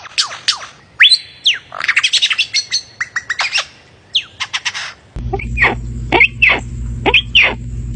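Birds calling in rapid, sharp chirps and whistles. About five seconds in, the sound changes to repeated downward-sweeping calls over a steady low hum.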